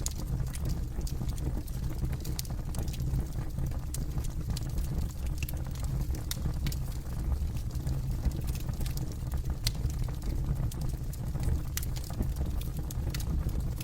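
Campfire burning, with frequent irregular sharp crackles and pops over a steady low rumble.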